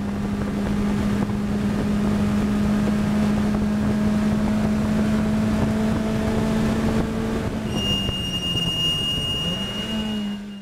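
Lotus Elise R race car's engine running at a steady pitch, heard on board with wind and road noise. A thin high whine joins about eight seconds in, and the sound cuts off abruptly at the end.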